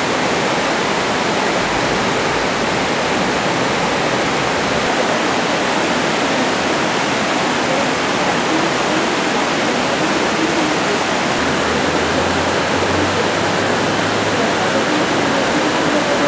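Torrential rain and floodwater rushing along a street, a loud, steady, unbroken roar of water.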